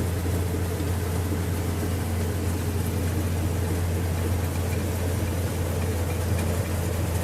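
Lorry engine idling steadily with a low, even hum, under a constant hiss of heavy rain.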